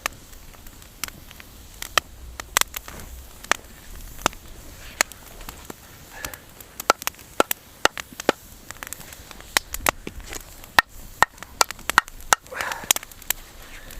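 Campfire crackling and popping, with sharp irregular snaps that come several a second at times.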